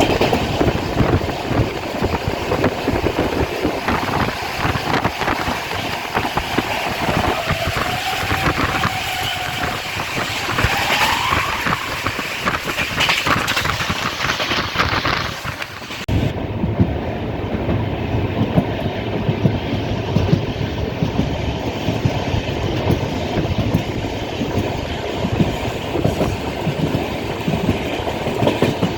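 Passenger express train running at speed, its wheels clattering over the rail joints under a steady rumble. A faint whine rises in pitch for a few seconds in the first half. About halfway through the sound turns abruptly duller.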